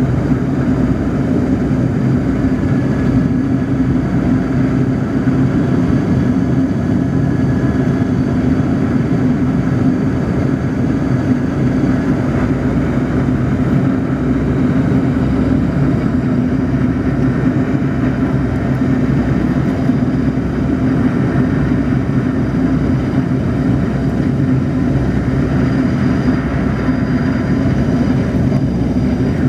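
Steady drone of a Yak-42D airliner's three D-36 turbofan engines and airflow during the landing approach, with faint steady whining tones above the rumble.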